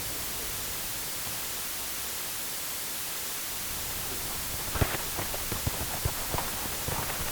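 Sports practice ambience: a steady hissing background, joined a little over halfway through by a scatter of irregular light taps and knocks, several a second.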